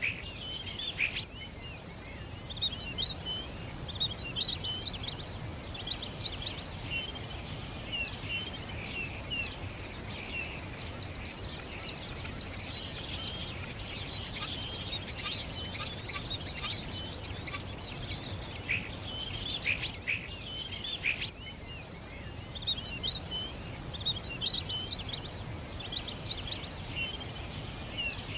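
Small songbirds chirping: many short, quick calls overlapping, heavier in the middle, over a steady low background hiss.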